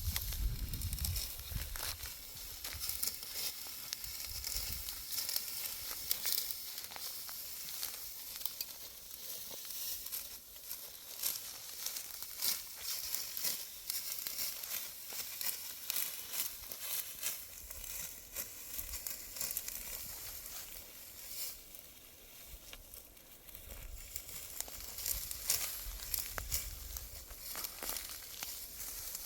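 Dry wheat stalks crackling and rustling as they are reaped by hand with a sickle: a steady stream of sharp snaps and tearing sounds. A low rumble comes and goes underneath, at the start and again in the second half.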